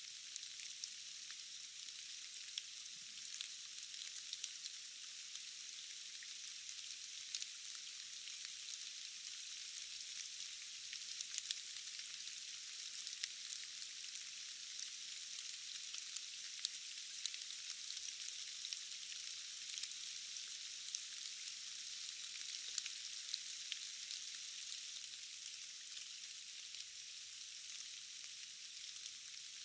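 Steady rain: an even hiss dotted with many small, sharp ticks of single drops, with no low rumble.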